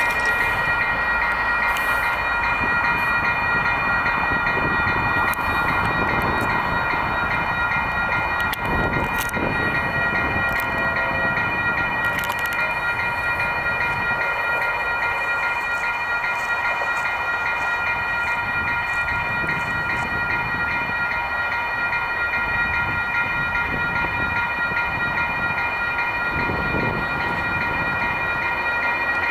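Freight train rolling through a grade crossing, its wheels and cars rumbling and clattering. The crossing's warning bells ring steadily and rapidly over it.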